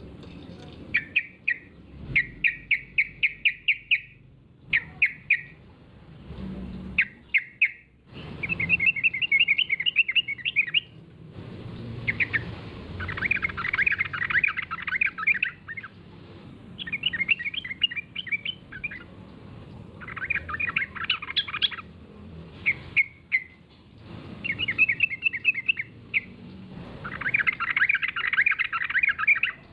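Yellow-vented bulbul (trucukan) singing: a string of bubbly, rapid chattering phrases, each one to two seconds long, repeated with short pauses between them. It is a lively lure song meant to draw other trucukan into answering.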